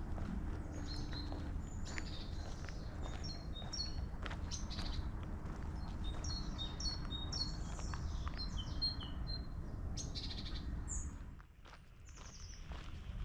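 Songbirds chirping and singing in short, quickly repeated high notes over a steady low rumble with scattered soft clicks. The rumble drops away briefly near the end.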